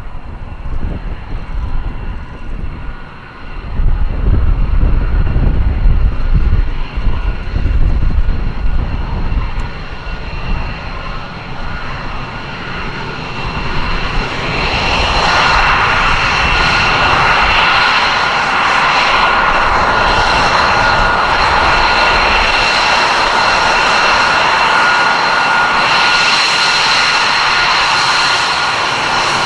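Aircraft engine noise from a display flight: a low rumble in the first half, then from about halfway a loud, steady roar with a high whine over it.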